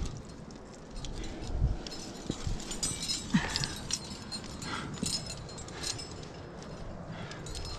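Scattered clinks and scrapes of climbing gear, carabiners and hardware knocking together and against rock, over wind rumble on the microphone.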